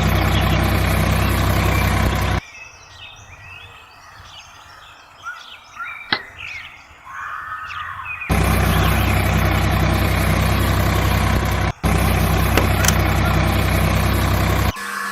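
A small motor running with a steady hum, cut off abruptly twice. A quieter stretch between the two runs holds faint chirps.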